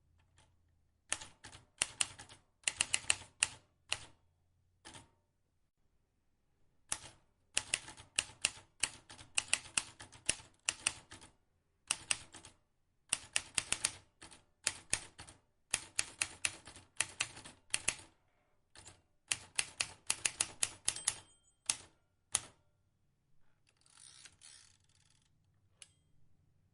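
Vintage manual typewriter being typed on: runs of sharp key clicks in quick bursts, broken by short pauses, with a softer rattling stretch near the end.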